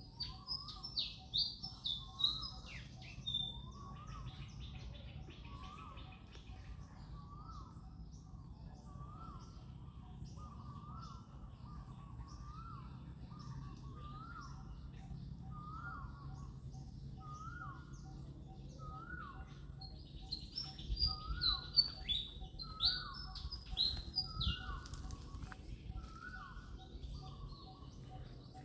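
Birds calling: one short rising note repeated about once a second, with bursts of high chirping at the start and again past the middle.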